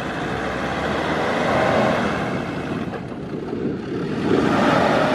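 Land Rover Defender Td5's five-cylinder turbodiesel engine revving hard as the truck labours through soft sand, its pitch rising and falling and getting louder in the second half.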